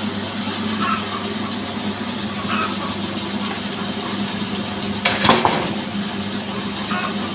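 A petrol-powered sawmill engine runs steadily with an even hum. A short, loud burst of noise comes a little after five seconds in.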